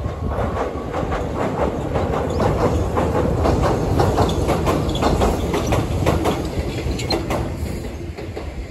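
Kōnan Railway Ōwani Line electric train crossing a steel girder bridge: a steady rumble with a fast run of wheel clicks over the rail joints. It is loudest in the middle and fades near the end as the train moves away.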